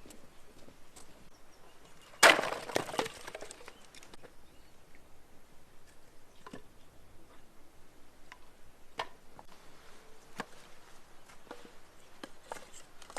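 Dry firewood cracking and splintering in one loud burst about two seconds in, followed by scattered small cracks and ticks.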